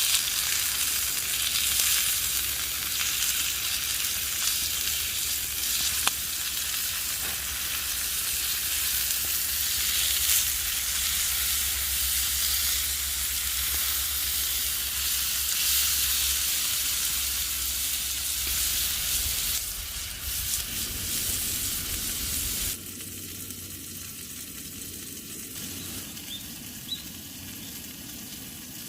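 Steady sizzling of food cooking over heat, with fine crackling. A low hum under it stops about 23 seconds in, after which the sizzling goes on more quietly.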